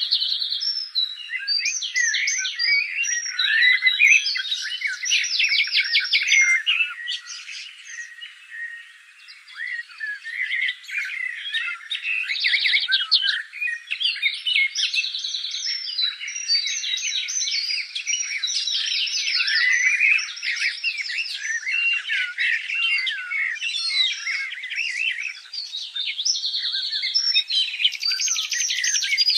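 Songbirds singing and chirping, many short calls, whistles and fast trills overlapping with hardly a break.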